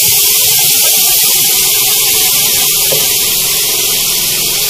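Spiced onion-garlic masala sizzling hard in a hot wok: a steady loud hiss from water boiling off in the oil, added so the masala doesn't stick. It eases slightly toward the end.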